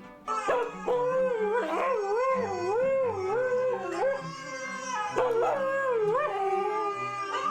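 Husky howling: a long wavering call that rises and falls in pitch, broken by a few short pauses.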